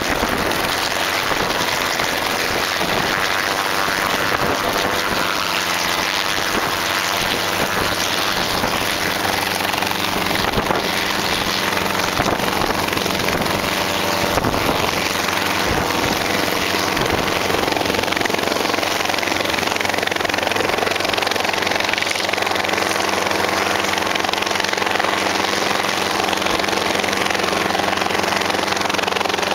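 Helicopter running, with rapid rotor chop over steady engine tones.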